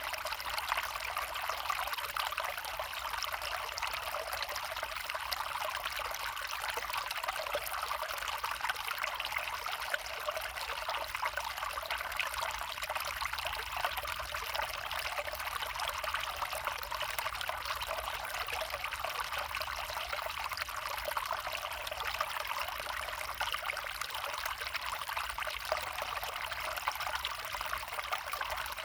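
A small stream trickling and babbling steadily.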